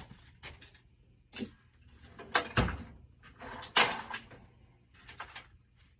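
Metal hand tools and sockets clattering and knocking as they are picked through, in a handful of separate sharp knocks; the loudest come about two and a half and four seconds in.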